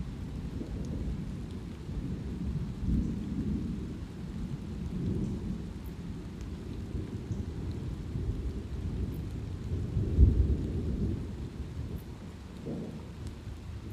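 Thunder rumbling continuously over light rain. The rumble swells several times and peaks loudest about ten seconds in, with faint scattered raindrop ticks above it.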